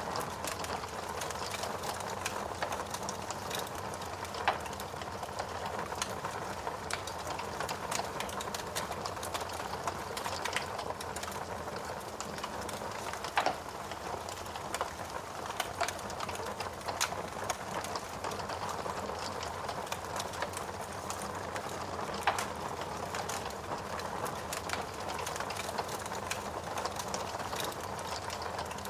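Steady rain with a wood fire crackling, irregular sharp snaps and pops over an even hiss, a few louder pops standing out.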